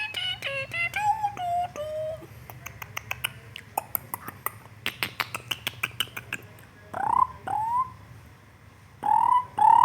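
Person whistling a short descending tune that fades out, followed by a run of quick sharp clicks and then short rising whistled notes, two together and more near the end.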